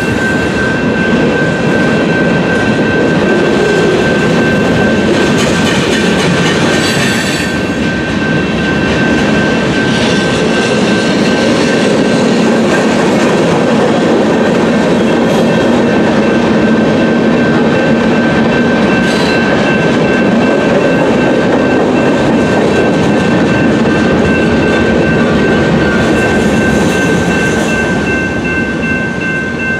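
Freight train cars rolling past a grade crossing, wheels clattering over the rail joints, while the crossing's electronic bell rings steadily throughout. The last cars pass near the end and the rolling noise eases a little.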